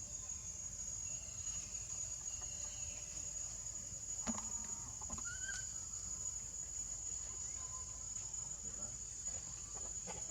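Steady high-pitched insect drone, with a few faint short animal calls and a couple of clicks about four seconds in.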